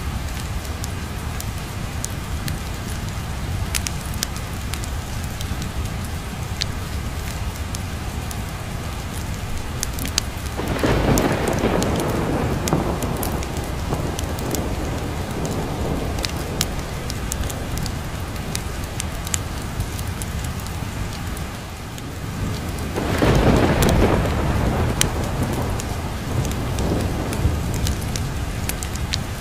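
Steady rain with two long rolls of thunder, one about eleven seconds in and one near the two-thirds mark, over the light crackle of a wood fire in a fireplace.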